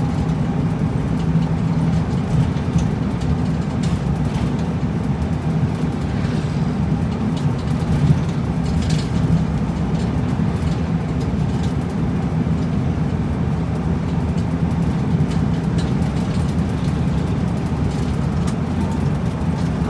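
City route bus's diesel engine running steadily at idle, heard from inside the cabin at the front, with a few faint clicks.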